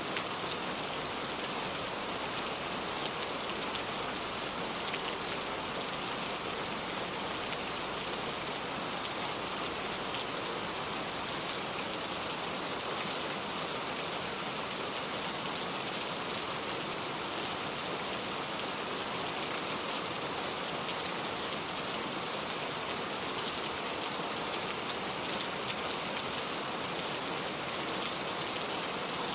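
Heavy rain pouring steadily, an even hiss with many fine drop ticks and no change in strength.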